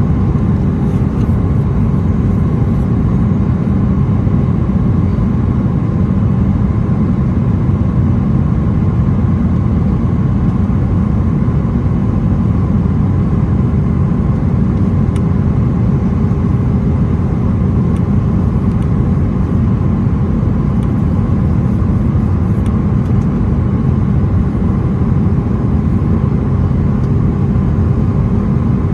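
Steady cabin noise inside a Boeing 737-900ER in flight: a loud, even low rush of airflow and its CFM56-7B engines, with a faint steady hum on top.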